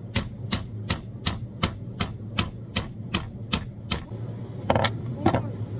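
Hammer tapping in an even rhythm, about two and a half strikes a second, stopping about four seconds in, followed by two irregular knocks. A low steady hum runs underneath.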